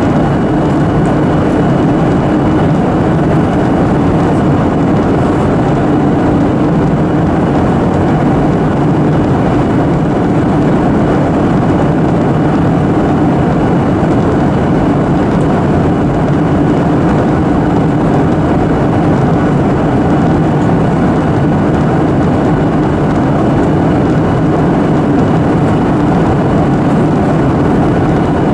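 Steady roar of a Boeing 737-800 heard inside the passenger cabin: CFM56 jet engines and airflow, a dense even noise, with a faint high steady whine above it.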